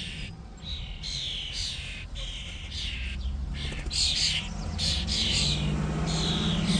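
Hand-reared young songbirds chirping repeatedly in short calls, sparse at first and then faster and louder from about four seconds in.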